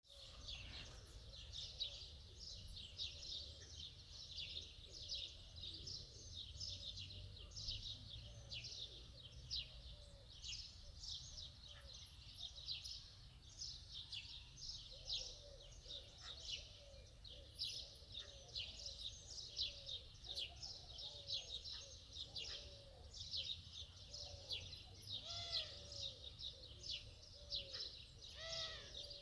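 Many small birds chirping and twittering without a break, with a lower call repeating steadily underneath in the second half.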